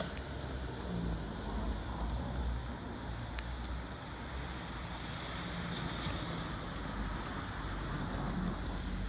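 Common kingfisher giving a run of short, high, thin chirps, repeated about twice a second, over a steady low rumble.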